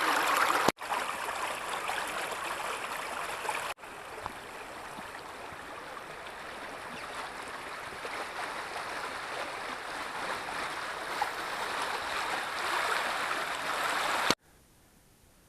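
Water of a small forest spring running steadily, in several clips with sudden breaks between them, and cutting off abruptly near the end.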